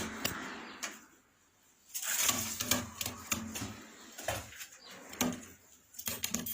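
Domestic pigeons cooing in short low calls, mixed with scattered sharp clicks and knocks.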